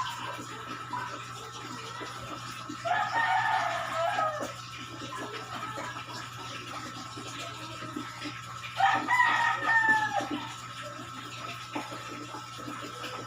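A rooster crowing twice, each crow a long call of about a second and a half that drops in pitch at the end, over a steady low hum.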